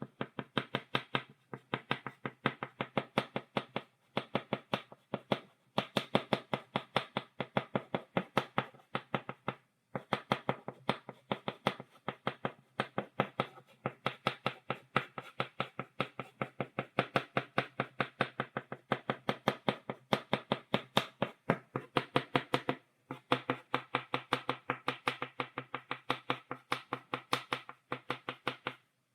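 Chalk stick tapped against a blackboard, stippling dots: quick sharp taps, several a second, in runs broken by short pauses.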